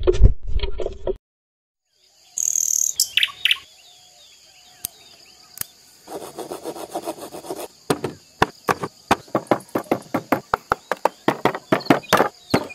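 Small birds chirping over a high, steady insect-like buzz. From about eight seconds in comes a fast, even run of sharp knocks, several a second.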